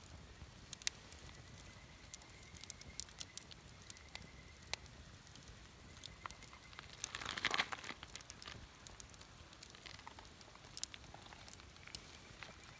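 Wood campfire crackling with irregular sharp pops, with a louder, longer rush of hissing and rustling about seven seconds in. A faint thin whistle comes and goes.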